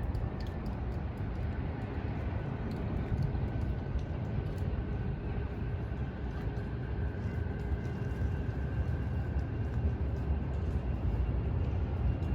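Steady low rumble of outdoor city noise, with a faint steady whine through the middle.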